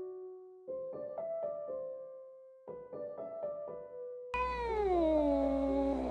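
Soft piano music, then about four seconds in a kitten's long meow breaks in, its pitch sliding downward, over a steady low hum.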